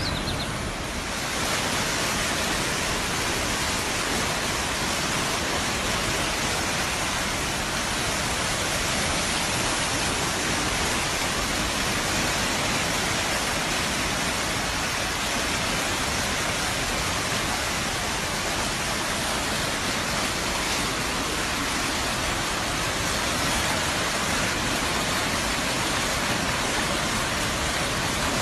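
Rushing floodwater: a steady, even roar of fast-moving water, after a brief dip in the first second.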